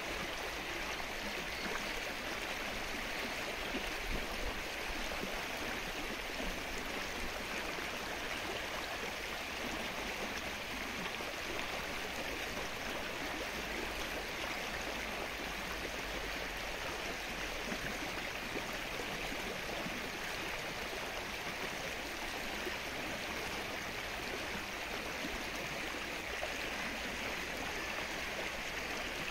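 Steady rain falling on open lake water: an even, unbroken hiss of many small drops.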